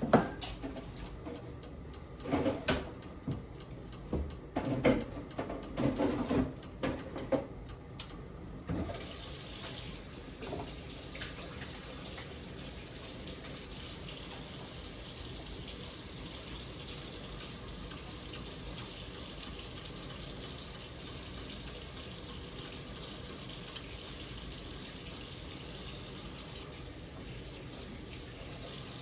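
A few knocks and clatters, then about nine seconds in a kitchen tap is turned on and runs steadily into the sink as hands are washed.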